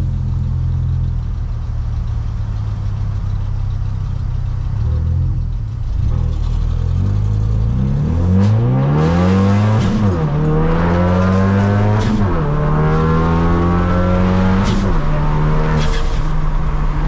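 Modified Ford Focus RS's turbocharged 2.3-litre four-cylinder cruising steadily, then pulling hard: the revs climb and drop back at three quick upshifts, with a few sharp cracks along the way.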